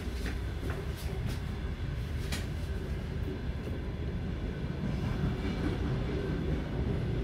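Train running, heard from inside a passenger carriage: a steady low rumble, with a few sharp clicks in the first couple of seconds.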